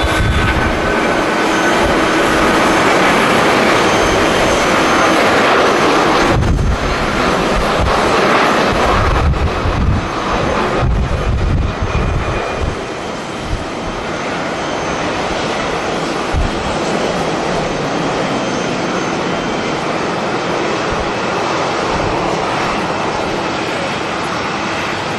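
Passenger jet engines running as an airliner passes, loudest in the first half and easing after about twelve seconds. Gusty wind rumbles on the microphone.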